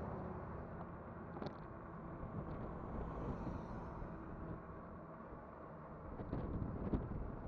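Kugoo Kirin V5 electric bike in motion: a steady rumble of wind and tyre noise, with a few short knocks and rattles, the sharpest about seven seconds in.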